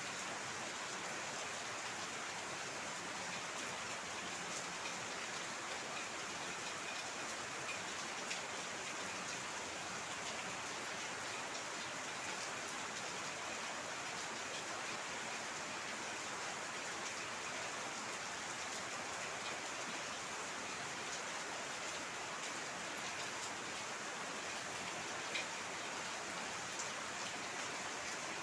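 Heavy rain falling steadily, a dense even hiss of rain with scattered individual drops ticking on a surface, one slightly louder tick near the end.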